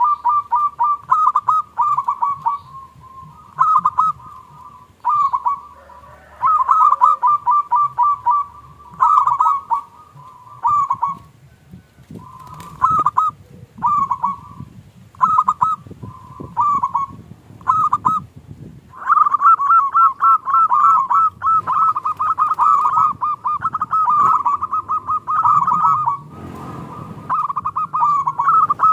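Zebra doves (local perkutut) cooing: short phrases of quick trilled coos repeated with brief gaps, then an almost unbroken run of overlapping calls from about 19 s, with a short rushing noise near the end.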